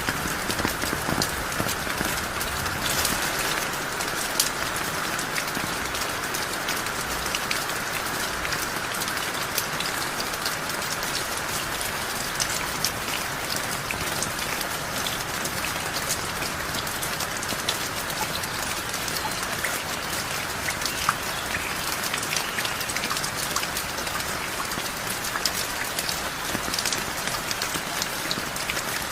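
Heavy rain falling steadily, a dense even patter of drops striking surfaces.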